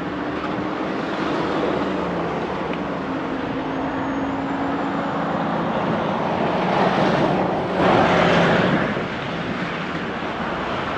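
Steady rush of outdoor traffic and wind noise with a faint engine hum, swelling louder for a couple of seconds about seven seconds in as a vehicle passes, then settling back.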